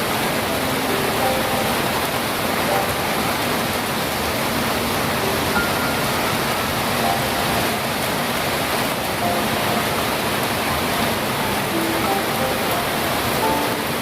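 Steady rainfall, an even hiss with no break, with faint short tones of varying pitch scattered through it.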